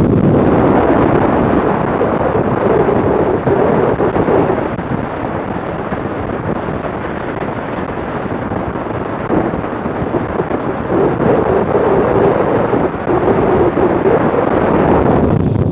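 Wind rushing over the microphone of a camera on a BMW R100RT motorcycle at road speed, covering the bike's own sound. The rush eases a little in the middle and builds again near the end.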